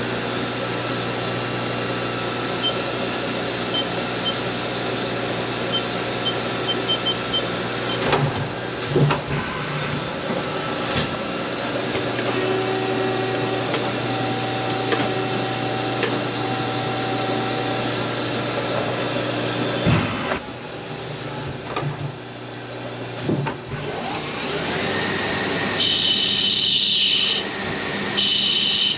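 CNC turning center running its program to turn a bronze bushing, over a steady machine-shop hum. Near the end a rising whine is followed by repeated sharp, high-pitched squealing bursts.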